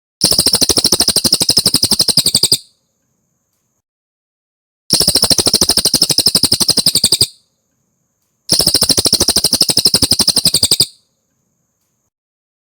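Cililin song: three fast trills of evenly repeated high notes, each about two and a half seconds long, with short silent gaps between them.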